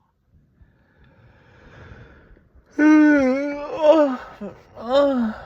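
A man's wordless vocalizing: a soft breathy exhale, then about three seconds in, drawn-out moaning "oh" sounds that slide down and up in pitch, three or four in a row.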